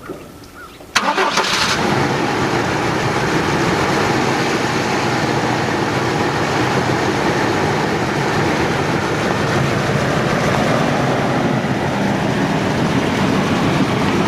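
1996 GMC Sonoma pickup's engine catching about a second in, then running steadily.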